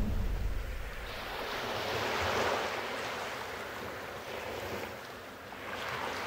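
Rushing, crashing water of the Düden waterfall: a steady noisy rush that swells about two seconds in and again near the end.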